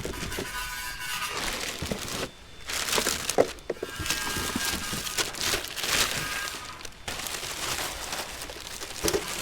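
Rummaging through a pile of discarded electronics and junk: irregular knocks, cracks and rustling as items are moved and handled.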